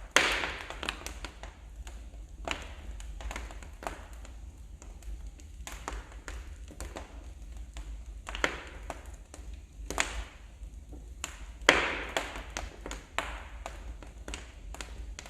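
Wood fire in a fireplace crackling, with irregular sharp snaps and a few louder pops over a steady low rumble.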